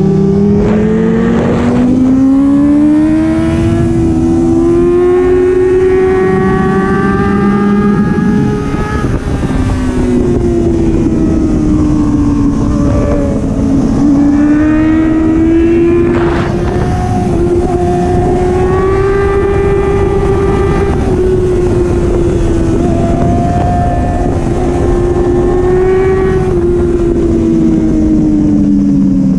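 Motorcycle engine under way, its pitch rising and falling again and again as the throttle opens and rolls off through the corners, over a heavy rush of wind.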